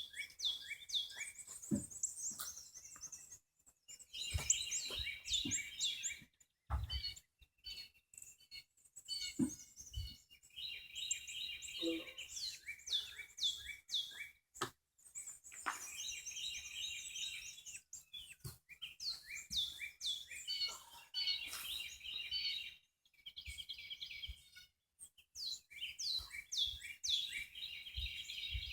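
A songbird singing bouts of quick, high, falling chirps every few seconds, with a few faint knocks in between.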